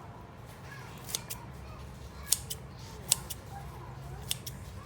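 Kitchen scissors snipping through soaked glass noodles, four sharp snips about a second apart.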